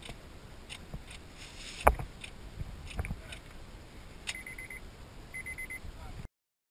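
A few dry clicks from a car that gives nothing when tried for a start, the loudest about two seconds in, then two short bursts of rapid, high electronic beeps about a second apart. The sound cuts off abruptly near the end.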